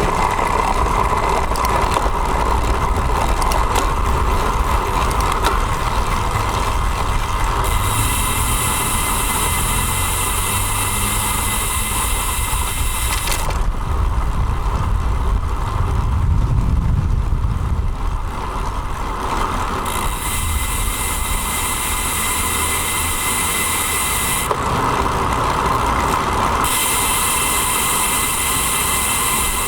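Riding noise of a road bike picked up by a bike-mounted action camera: steady wind and road rumble with rattle from the bike, and a high hiss that comes and goes several times.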